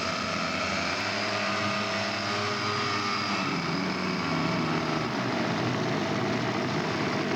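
Radio-controlled scale model airplane engine running steadily in flight, its pitch shifting a little as the plane passes.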